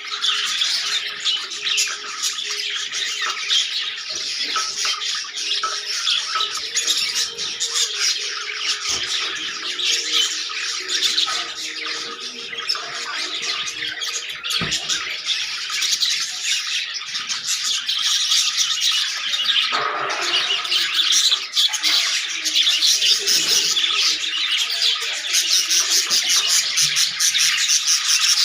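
A flock of budgerigars chattering and squawking continuously, many birds calling over one another.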